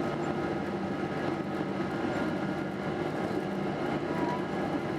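Steady running noise of a Boeing 777-200 airliner: an even hum with constant low tones and no change in pitch or level, as when the engines are running before the takeoff roll.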